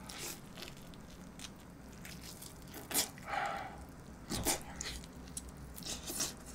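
A person biting tender braised pork rib meat off the bone and chewing it. Soft eating noise throughout, with a few short, sharp wet mouth clicks in the second half.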